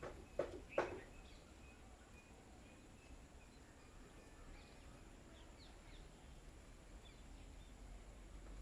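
Two sharp taps in the first second, then faint, scattered short bird chirps over a low steady background hum.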